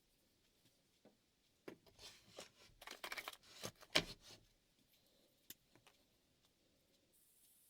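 A steel chef knife blade scraping across a ceramic whetstone in a burst of short, irregular strokes with clicks, a couple of seconds long, followed by a few faint ticks.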